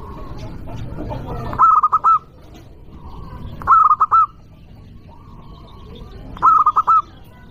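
Zebra dove (perkutut) singing: three short cooing phrases, each of about four quick notes, spaced roughly two and a half seconds apart, over a low background rumble.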